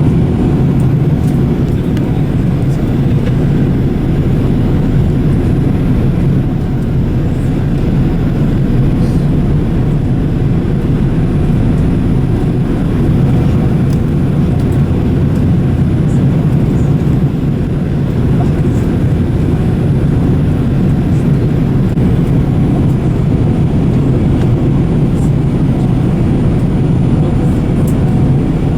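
Steady low rumble of an airliner's cabin noise: engines and airflow heard from inside the passenger cabin, holding an even level.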